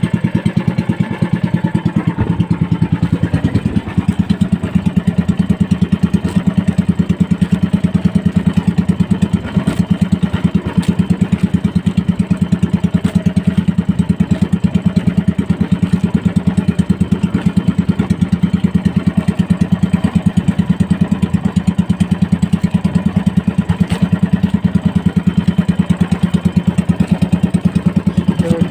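Small motorized outrigger boat's engine running at a steady speed, a fast, even chugging beat.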